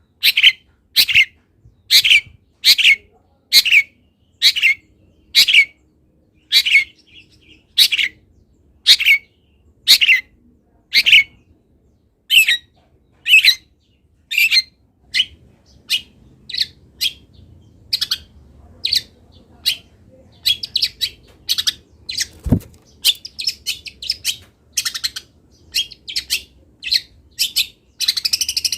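Long-tailed shrike (cendet) calling loudly. For the first half it repeats a short harsh note about once a second; after that its notes come faster and vary more.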